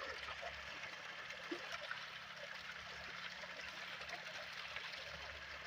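Faint, steady trickle of running water, with a low hum coming and going.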